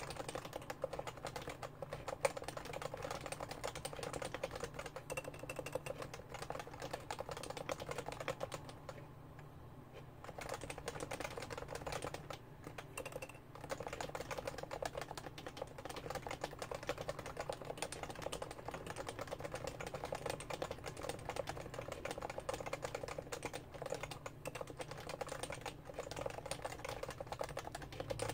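Continuous typing on a Realforce R2 keyboard with Topre electro-capacitive switches, keystrokes coming in a dense, uneven stream with a brief pause about nine seconds in.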